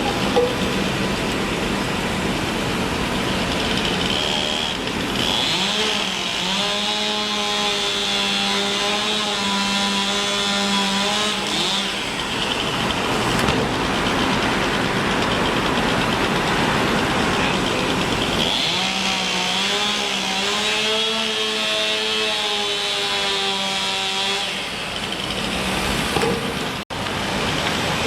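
A power saw on the construction site running at a steady pitch in two spells of about six seconds each, over a constant wash of road traffic.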